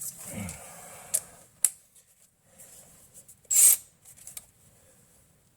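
Sparse metallic clicks and clinks of a ratchet wrench and hand tools being worked onto a suspension bolt. There is a louder, short clatter about three and a half seconds in.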